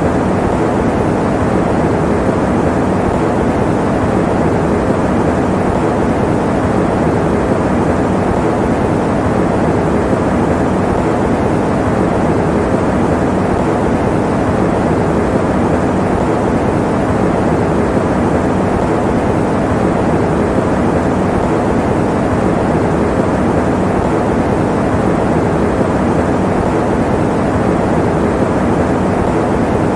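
Electric fan running: a steady, even rushing noise, heaviest in the low and middle range, with no tones or changes.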